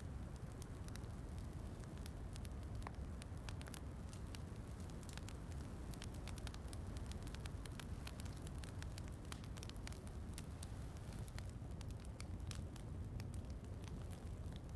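Wood fire crackling in a fireplace, with frequent small sharp pops and snaps over a steady low rumble, mixed with soft rain.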